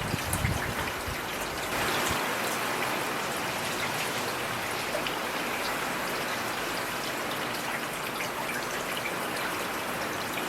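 Heavy rain falling steadily, a dense hiss of drops with individual drops pattering close by and a few low thuds in the first second.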